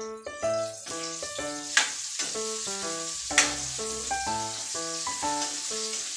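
Food frying in a wok, a steady sizzle as it is stirred with a spatula, with two sharp knocks of the spatula against the pan about two and three and a half seconds in. Background music plays a running string of short notes over it.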